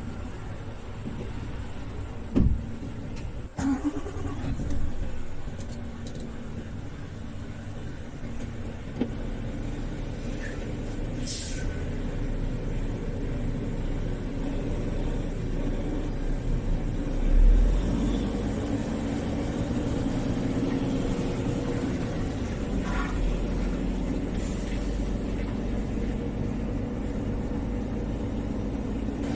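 Heavy truck's diesel engine running steadily, with a few sharp knocks in the first few seconds and a brief louder rise about halfway through.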